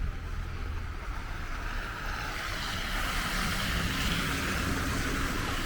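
Street traffic on a snowy, slushy road: a vehicle's tyre hiss swells from about two seconds in, over a low steady rumble.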